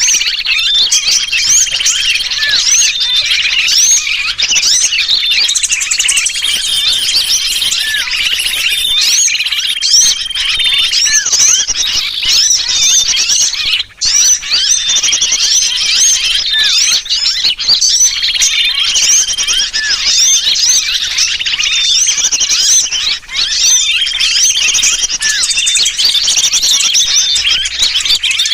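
A bird-lure recording of many small birds chirping at once, mixed with sooty-headed bulbul distress calls. The calls are dense and overlapping, mostly short up-sweeping chirps, with a brief drop-out about halfway through.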